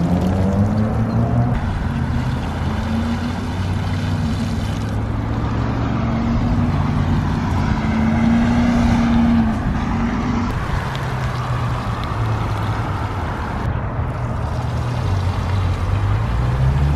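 A motor vehicle's engine running steadily, its low hum drifting slightly up and down in pitch, over a constant hiss.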